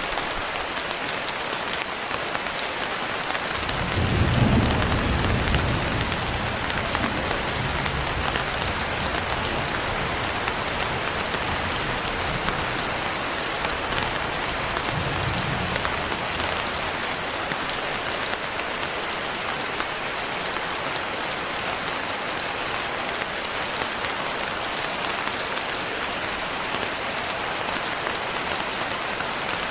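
Steady rain falling, an even hiss, with a low roll of thunder rumbling in about four seconds in and fading over a few seconds. A fainter rumble follows around the middle.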